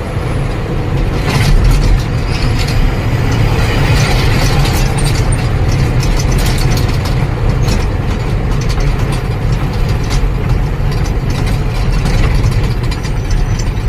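Truck's diesel engine running, heard from inside the cab, with a steady low drone and frequent rattling clicks from the cab.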